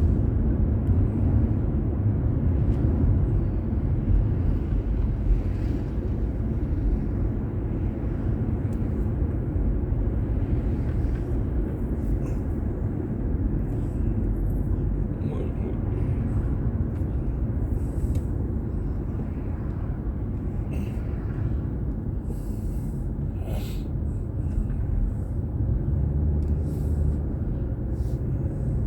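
Steady low rumble of a car driving, road and engine noise heard inside the cabin through a dashcam's microphone, with a few faint high clicks.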